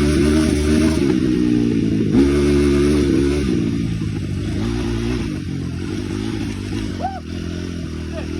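Small off-road engine running under throttle, revving up twice in the first few seconds, then running steadier and a little quieter.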